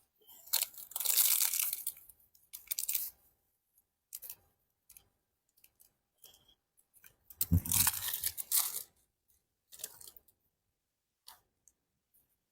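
Dry leaves and twigs crunching and rustling as they are handled, in two main bursts with a few scattered snaps between.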